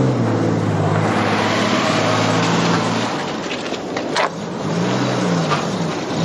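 Ford Capri engine running steadily, then revving up and back down once near the end as the car pulls away. A sharp click comes about four seconds in.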